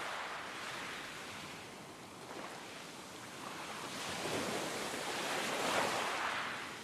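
Wind gusting outdoors, a steady rushing noise that swells louder about four to six seconds in.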